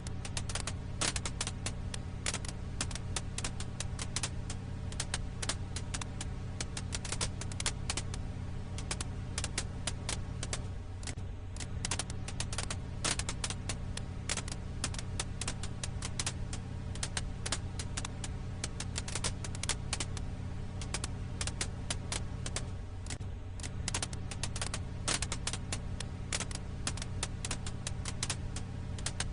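Firewood crackling in a campfire: dense, irregular sharp pops and snaps over a steady low hum, played as a short loop that repeats about every twelve seconds.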